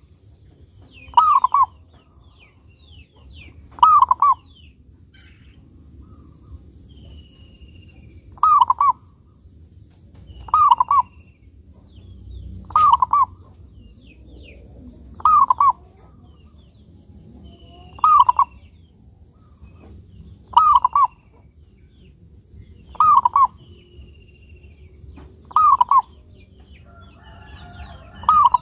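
Zebra dove (perkutut) singing: about a dozen loud, short cooing phrases, each a quick run of notes, repeated every two to three seconds. Fainter high chirps of other birds and a low steady hum lie underneath.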